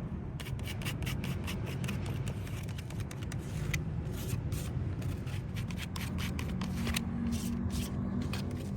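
Quick, irregular scraping strokes against an alloy wheel rim during curb-rash repair, over a steady low rumble.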